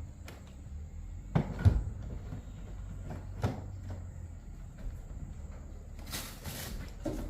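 Several separate knocks and thumps of objects being handled, the loudest about one and a half seconds in, over a low steady hum, with a short noisy burst a little before the end.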